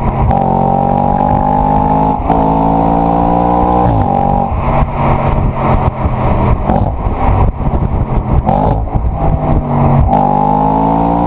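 Audi RS4 B8's 4.2 FSI V8 exhaust, loud. The engine note falls in steps as the car slows through downshifts, with a run of crackles on the overrun in the middle, then jumps and rises under hard acceleration near the end.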